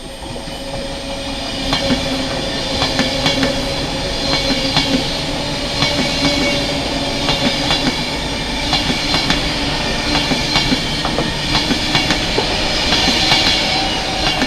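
British passenger train running along the track, its wheels clicking repeatedly over rail joints and points above a steady hum.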